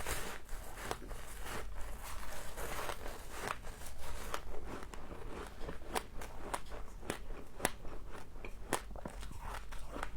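Frost being bitten and chewed close to the microphone: dense crunching and crackling for the first few seconds, then separate crisp crunches, over a low steady hum.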